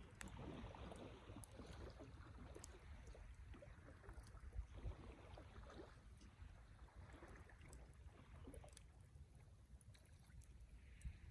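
Wood bonfire burning softly: a low steady rush of flame with scattered sharp crackles and pops from the burning wood.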